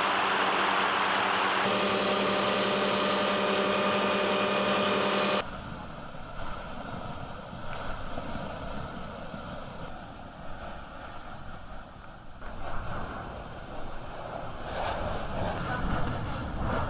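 A loud, steady engine drone with several steady hum tones, which cuts off abruptly about five seconds in; after that, softer gusty wind noise and low rumbling.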